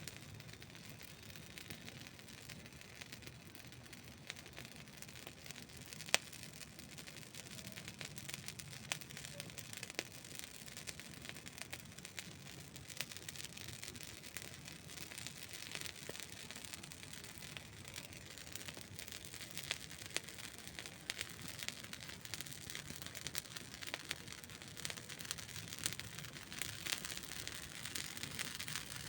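Wood campfire burning, with a soft steady hiss and irregular sharp crackles and pops; one pop about six seconds in stands out, and the crackling grows busier towards the end.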